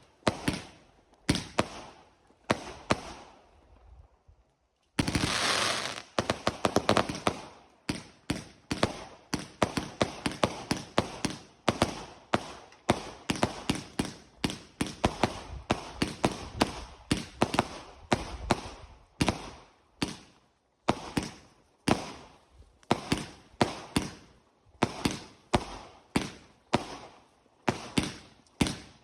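Fireworks going off in a fast barrage: a string of sharp bangs, a brief pause about four seconds in, then a dense crackling burst followed by bangs at a few per second.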